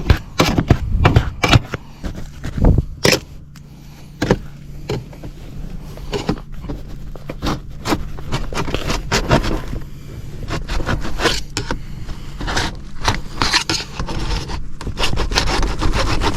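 Hands and tools scraping, rattling and knocking against sheet-metal ductwork around a zone damper: quick irregular clicks and rubs over a steady low hum.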